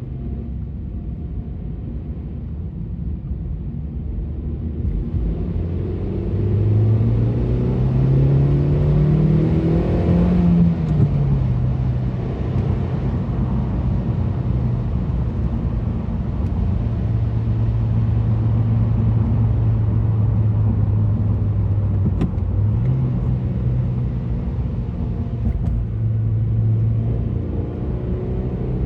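Suzuki Swift Sport ZC32S's M16A 1.6-litre inline-four DOHC engine, fitted with a GReddy sports-catalyser exhaust manifold, a Monster Sport PFX300 intake filter and the stock muffler, running loud under load. Its pitch climbs steadily for about four seconds, falls back to a lower steady pitch, and steps up again about two-thirds of the way through.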